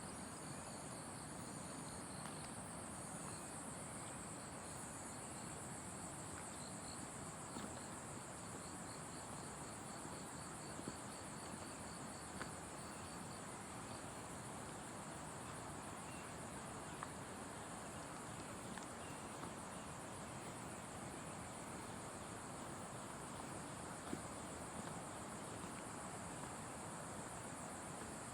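A steady, shrill chorus of forest insects, with rapid pulsing chirps from another caller through roughly the first half and a few faint ticks.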